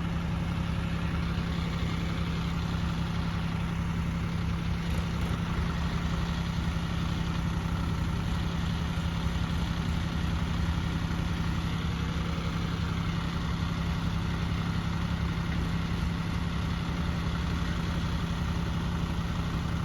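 Diesel tractor engine running steadily at a constant speed, with no revving or change in pitch.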